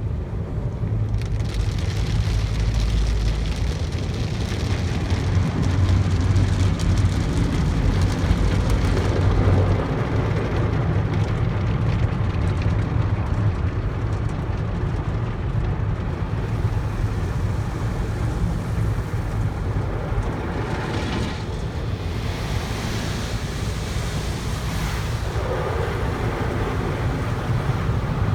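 Automatic tunnel car wash running over a car, heard from inside it: water spray drumming on the body over a steady low rumble of the machinery, with louder hissing sweeps of spray about two-thirds of the way through.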